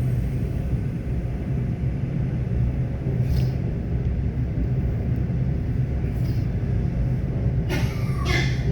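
ET2 electric multiple unit running along the track: a steady low rumble, with brief higher-pitched noises a few times and a longer one near the end.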